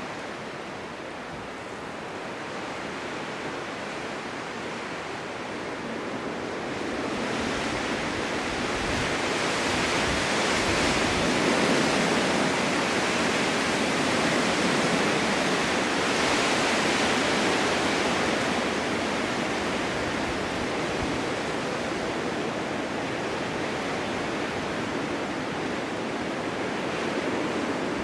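Strong winter wind blowing snow across open ground, a steady rushing that builds from about seven seconds in, peaks in the middle, and eases a little toward the end.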